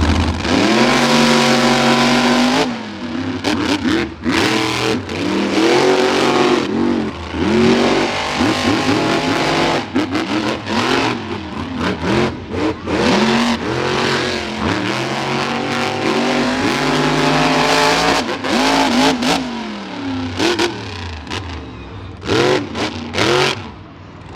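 Monster truck engines revving hard, their pitch climbing and dropping again and again as the trucks throttle through the course, with sharp cracks scattered through it.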